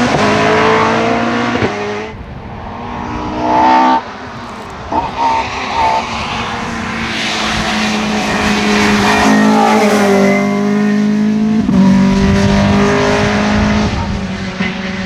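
Rally car engines at full throttle: revs climb through the gears, drop sharply on lift-off, blip in short bursts, then build again near the end, with a rush of tyre noise in the middle.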